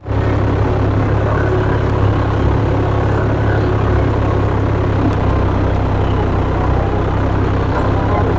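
Tractor's diesel engine running steadily at an even pace, a deep, unbroken drone.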